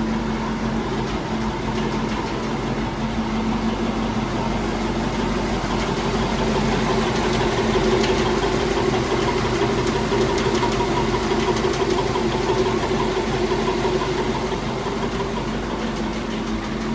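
1929 Packard 626's straight-eight engine idling steadily while it warms up after a cold start, a little louder for a few seconds in the middle.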